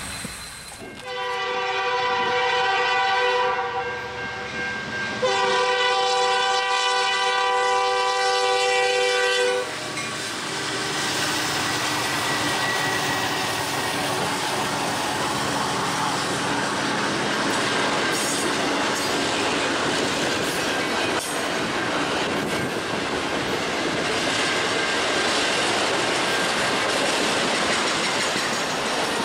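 A train horn sounds two long chord blasts, the second longer. Then a freight train of double-stack container cars and autoracks rolls steadily past, with wheels clacking over the rail joints.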